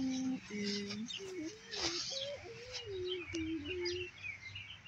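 Small birds chirping repeatedly in the background, while a person's low voice hums, holding and sliding between notes for about four seconds before stopping.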